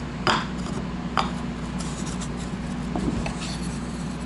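Cut wooden drawer pieces of a bandsaw box knocking and rubbing together as they are handled, with two sharp knocks in the first second or so and a few lighter ticks after, over a steady low hum.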